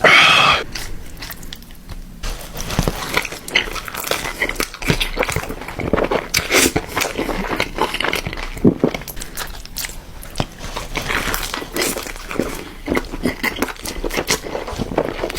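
Close-miked eating: irregular bites, crunches and chewing of food, with a brief whining sound right at the start.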